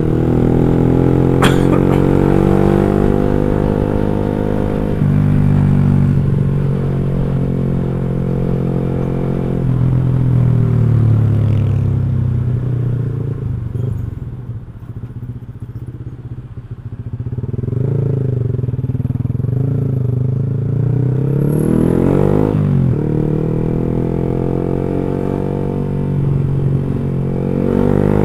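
Small motorcycle running on the road through an aftermarket X1 Speed Pro One racing exhaust with a fully packed silencer, so the note is not too tinny. The engine pulls steadily, drops in pitch at gear changes, goes quieter off the throttle through the middle, then climbs again as it is revved back up.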